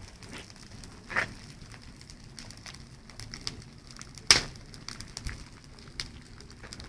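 Bonfire burning, crackling with scattered sharp pops; the loudest pop comes about four seconds in, and another about a second in.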